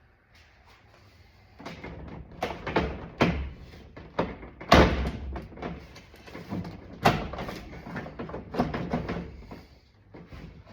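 A plastic door trim panel being yanked and wrestled against the door: a run of sharp knocks and rattles, loudest about halfway through and again a couple of seconds later. It won't come free because a forgotten screw is still holding it.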